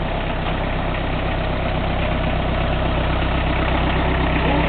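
Car engine idling steadily in an open engine bay with the bonnet up.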